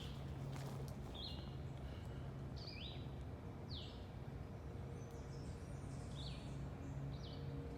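A small songbird calling outdoors, giving short, falling high notes about once a second. A steady low machine hum runs underneath.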